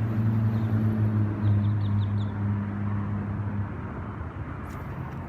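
Steady low hum of a motor vehicle engine running nearby, over outdoor wind noise; the hum eases off a little under four seconds in. A quick run of faint high chirps comes around two seconds in.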